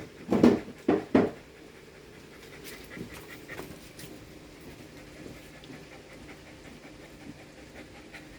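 Shiba Inu dog panting hard: a few loud, quick breaths in the first second and a half, then quieter, uneven panting.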